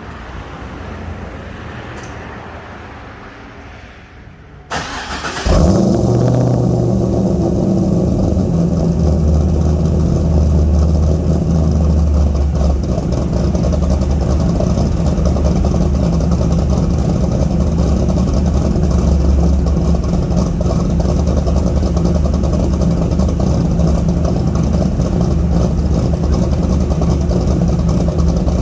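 C5 Corvette Z06's LS6 V8, with an aggressive cam, long-tube headers, X-pipe and GHL Magnum Bullet exhaust, started from cold. It catches about five seconds in, flaring up loudly, then settles into a steady, loud cold-start idle.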